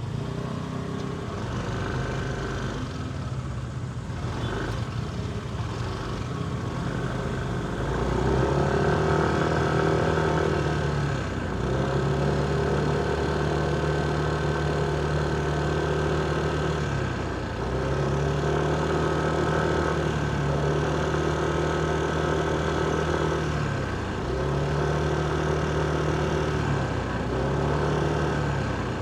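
Motorcycle engine heard from the rider's seat while riding in traffic. For the first several seconds it runs low and quiet. From about eight seconds in, the pitch rises, holds and drops about five times as the throttle is opened and eased off.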